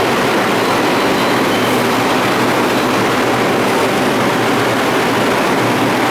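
Bombardier R142 subway train running along the track, a steady, loud noise of wheels and motors with no sudden events.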